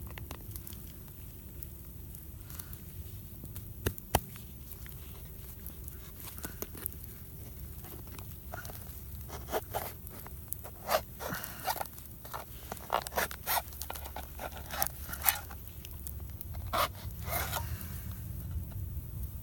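A tin of stewed pork being opened and its contents scraped out: a string of short metallic scrapes and clicks, with one sharp click about four seconds in and the scraping thickest in the second half.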